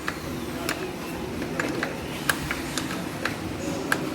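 Sharp metallic clicks and ticks, about a dozen at irregular intervals, from bolts and hand tools being worked on a sheet-metal duct flange joint, over a steady low background noise.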